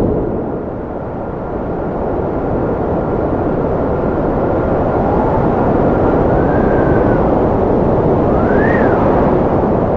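Strong wind blowing steadily with a deep rushing sound, over which a thin whistle drifts, rising and falling in pitch.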